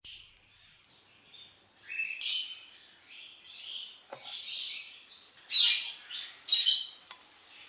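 A bird chirping and squawking in a string of short, high-pitched calls, starting about two seconds in, with the two loudest calls near the end.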